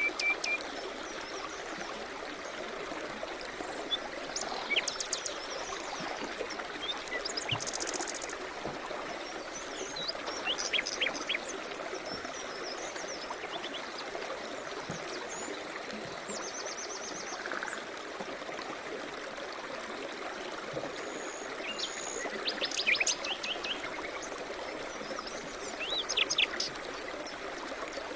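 A river or stream flowing steadily, with birds singing over it in scattered short chirps and quick trills every few seconds.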